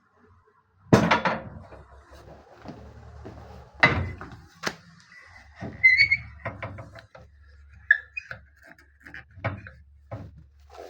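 Cast iron stove doors and fittings being handled: a series of metal clanks and knocks, the loudest about a second in, with short hinge squeaks about six and eight seconds in.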